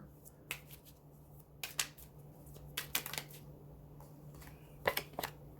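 Scattered short clicks and rustles of small objects being handled, in a few small clusters, over a faint steady low hum.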